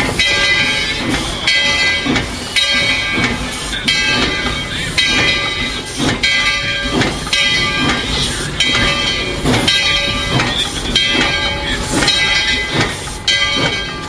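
Narrow-gauge 4-6-0 steam locomotive No. 12 under way, heard from its cab: a regular rhythm of exhaust beats, about one and a half a second, with steam hiss and the clatter of the rails.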